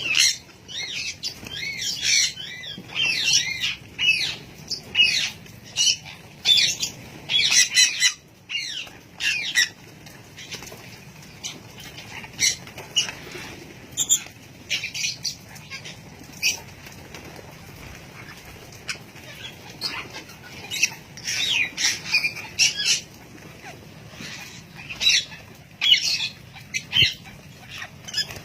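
A flock of small birds chirping and calling in quick, overlapping bursts, busiest in the first ten seconds and again near the end, with sparser chirps and clicks in between.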